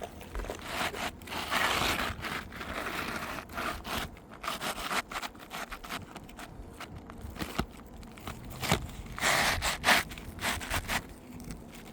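A replacement 3-tab asphalt shingle scraping and rustling as it is slid and worked into place under the shingles above, its gritty surface rubbing against the roof, in two main spells with small knocks and clicks between.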